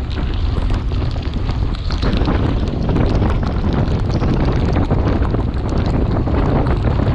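Wind buffeting the microphone of a moving bicycle rider, a steady heavy rush, with many small crackles from rain and wheel spray on a wet road.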